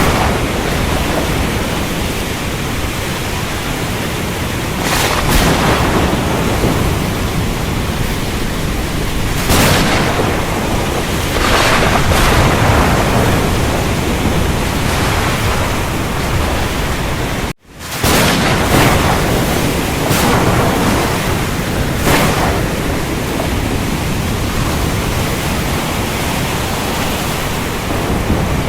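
Heavy rain in a thunderstorm: a steady, dense downpour hiss with several sudden crashes of thunder. About two-thirds of the way in, the sound cuts out for a split second.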